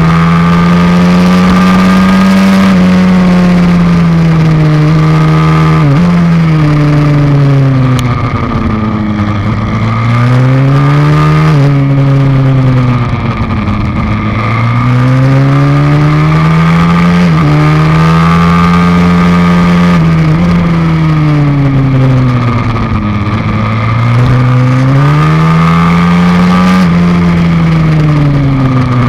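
Pit bike's YX160 single-cylinder four-stroke engine heard on board at race pace. The engine note climbs and falls again and again as it accelerates out of corners and backs off into them, with brief sharp dips in pitch as it changes gear.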